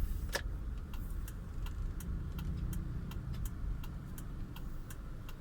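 Car turn-signal indicator clicking at an even pace, about three clicks a second, over the low rumble of the car driving.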